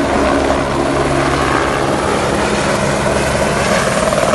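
Helicopter running loud and steady, a fast rotor beat under a steady engine and turbine whine.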